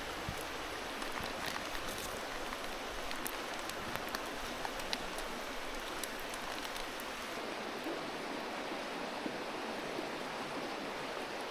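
River water flowing steadily, with a few faint clicks scattered through it.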